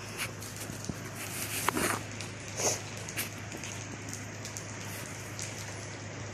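Rain falling, with scattered single drops striking a surface, a few louder than the rest, over a steady low hum.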